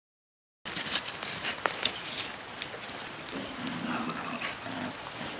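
Rain falling, a steady hiss peppered with small drop ticks and patters, starting about half a second in.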